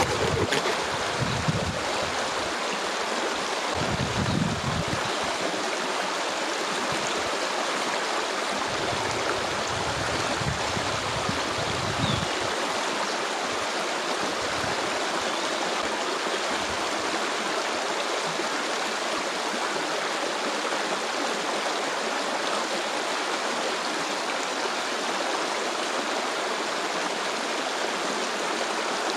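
Flowing stream rushing and splashing steadily, with a few faint low thumps in the first dozen seconds.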